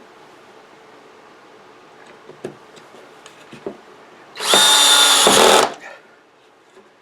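A couple of light knocks, then a power drill runs once for about a second, driving in a screw for a tabletop fastening clip.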